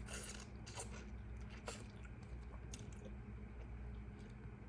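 Close-up chewing and mouth sounds while eating a seafood boil, with a few soft wet clicks and smacks, mostly in the first two seconds, over a low steady hum.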